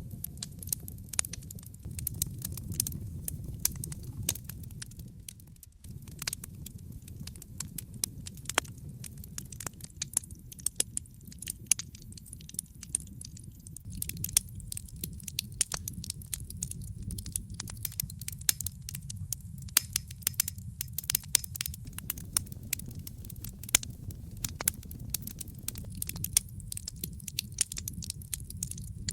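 Wood fire crackling in a fireplace: frequent irregular sharp pops and snaps over a low, steady rumble from the flames.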